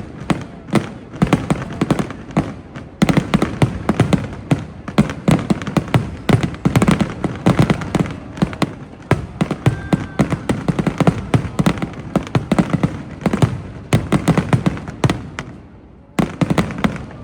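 Aerial fireworks bursting in a dense barrage of sharp bangs and crackles that overlap one another, easing briefly near the end before picking up again.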